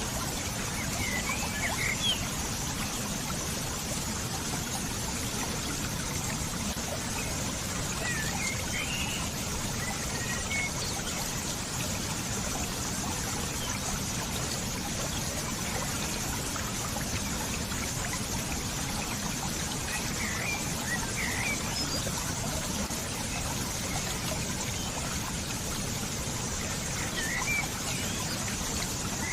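Running water, a steady trickling flow like a small stream. A bird chirps briefly in four short bouts over it.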